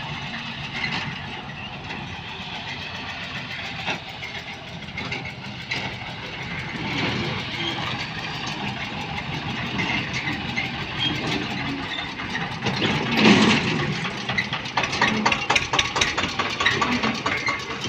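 Eicher 242 tractor's diesel engine running steadily, with a louder surge about thirteen seconds in.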